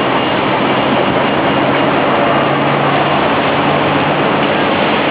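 Singapore Airlines Airbus A380's jet engines during takeoff: a loud, steady rushing noise with a low, even hum beneath it.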